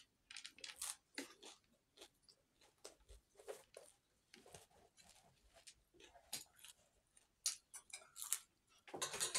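Close-up chewing of crunchy food, eaten by hand: irregular short crisp crunches throughout, with a louder cluster near the end.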